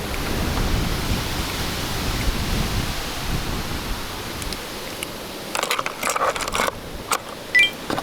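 Outdoor noise with an uneven low rumble like wind on the microphone, then a cluster of short rustling clicks about five and a half seconds in and a brief high chirp near the end.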